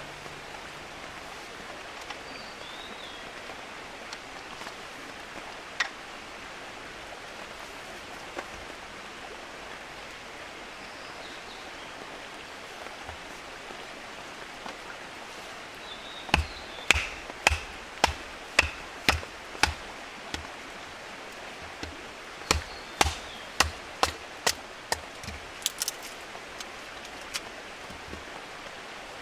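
Firewood being split: two runs of sharp wooden knocks, about two a second, in the second half, over a steady outdoor hiss.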